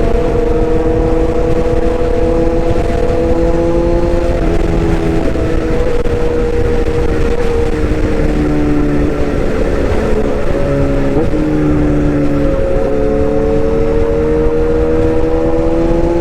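Motor of a toy excavator running with a steady pitched whine. The pitch sags and wavers in the middle, as under changing load, and climbs back near the end.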